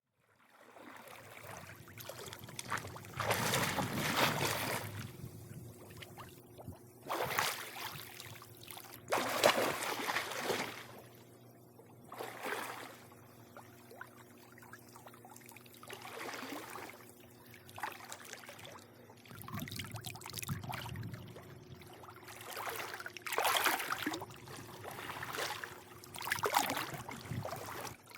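Swimming pool water lapping and splashing in irregular surges every few seconds, with a faint steady hum underneath.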